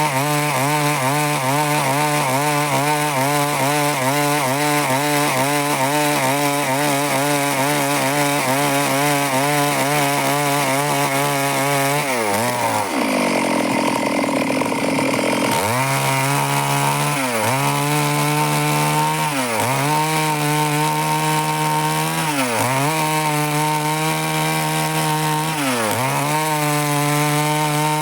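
Stihl two-stroke chainsaw running at high revs while cutting wood. About twelve seconds in, the engine drops to low revs for a few seconds, then revs back up, with short dips in engine speed every two seconds or so.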